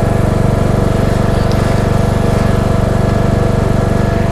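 Cub Cadet XT1 riding lawn mower engine running steadily under load while towing a tow-behind dethatcher across the lawn.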